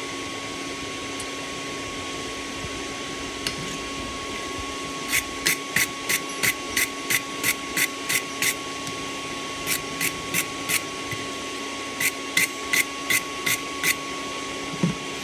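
Hammer striking steel on an anvil in three quick runs of blows, about three a second, each blow ringing briefly, over a steady machine hum.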